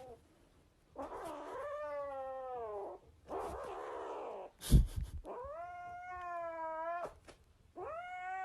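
Cat yowling in long drawn-out wails, one harsh and raspy, each lasting a second or two and bending slowly in pitch. A loud sharp knock comes about halfway through.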